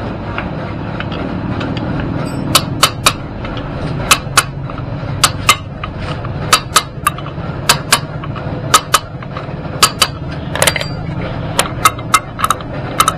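Hammer or hand tool striking metal during scooter tyre work: from about two and a half seconds in, about twenty sharp taps in irregular groups of two or three, roughly one group a second, over a steady low rumble.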